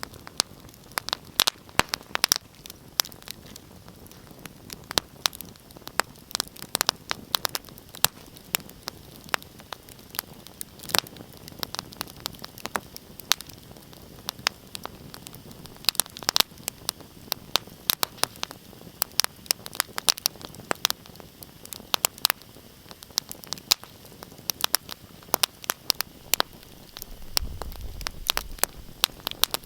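Wood fire crackling in a fireplace: frequent sharp pops and snaps over a steady hiss. A short low rumble comes near the end.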